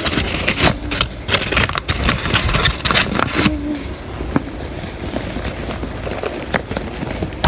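Kitchen handling noise while flour is got out for coating fish: a busy run of clicks, knocks and scrapes, thinning after a few seconds to a steadier rustling bed with a few scattered clicks.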